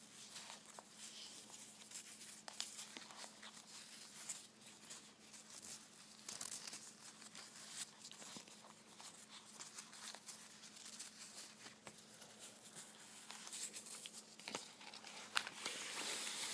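Soft crinkling and rustling of handled crinkly material, with many small scattered clicks and taps, growing louder near the end. A faint steady hum lies underneath.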